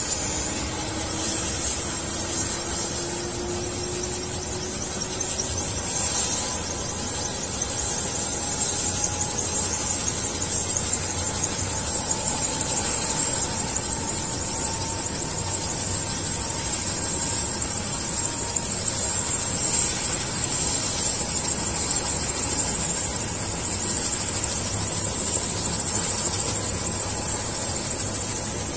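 Helicopter turbine engine running during start-up: a steady high-pitched whine over a constant rushing noise, with a lower tone that rises slowly over the first five seconds as the engine spools up.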